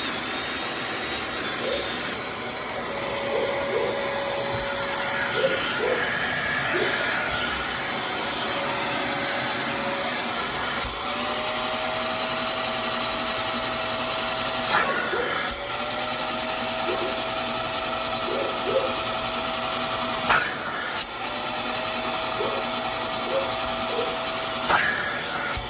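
Vacuum or wet extractor running steadily on a fabric truck seat, its motor pitch dropping and climbing back up every five or six seconds as the nozzle is worked over the upholstery. Sharp clicks mark several of these strokes.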